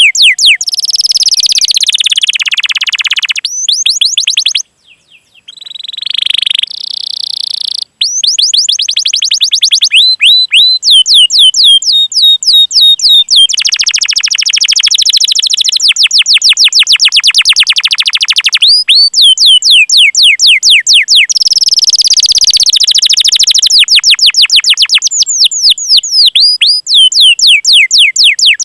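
Canary singing: series of sharp, high, downward-slurred 'cuit cuit' call notes alternating with long, fast rolling trills, with a brief break about five seconds in.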